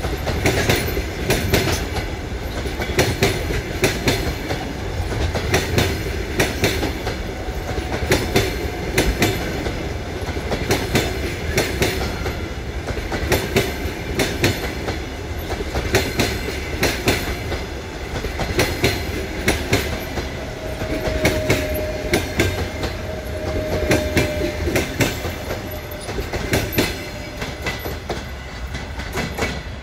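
Passenger coaches of a long train rolling past, their wheels clattering over the rail joints in a steady run of clicks. A faint thin whine comes in for a few seconds about two-thirds of the way through.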